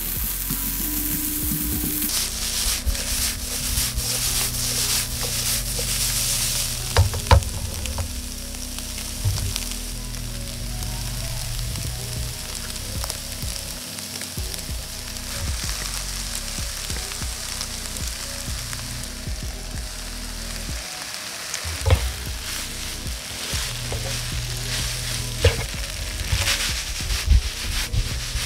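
Chicken, vegetable and soba noodle stir-fry sizzling in a nonstick wok on high heat, with a utensil now and then knocking against the pan as it is stirred.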